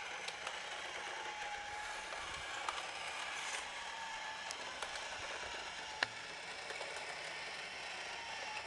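Haynes model combustion engine kit turning over on its small electric drive motor: a steady mechanical whir of gears and moving parts, with a faint wavering whine and a few light clicks, the sharpest about six seconds in.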